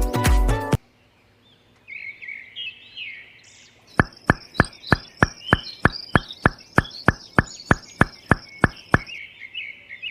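Music cuts off under a second in, leaving birds chirping. From about four seconds in, an even run of sharp knocks, about four a second, goes on for some five seconds under the bird calls.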